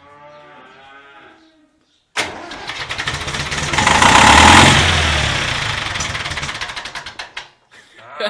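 David Brown 1490 diesel tractor engine cranked on the starter and firing, starting suddenly about two seconds in, running up loud with rapid pulses, then fading away and stopping a few seconds later: the engine fails to keep running.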